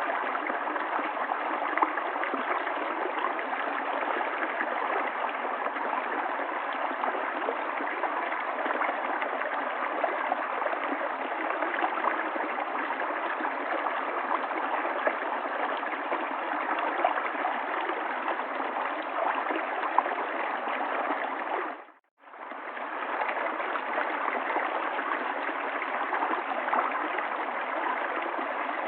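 River water flowing and gurgling in a steady rush. About two-thirds of the way through it fades out for a moment and comes straight back.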